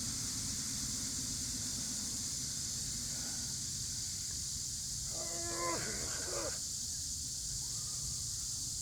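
Steady, high-pitched drone of a cicada chorus, with a strained vocal groan of effort about five seconds in, lasting a little over a second, during chin-ups.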